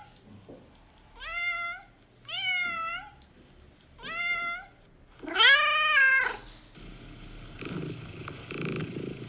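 Domestic cat meowing four times, the last meow longer and louder, then purring steadily from about seven seconds in.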